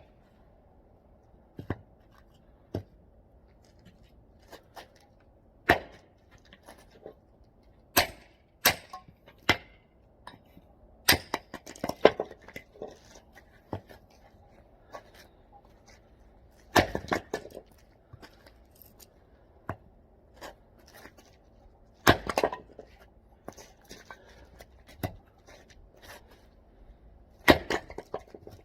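Hand hatchet chopping and splitting oak firewood: sharp, sudden strikes every few seconds at an irregular pace, with fainter knocks between them.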